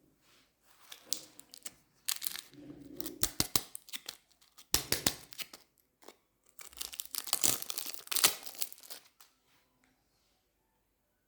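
Wood fire in a fireplace crackling and popping: irregular flurries of sharp snaps with short quiet gaps between them.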